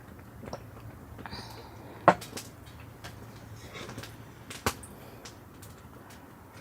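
Scattered light clicks with two sharp knocks, one about two seconds in and one near the five-second mark.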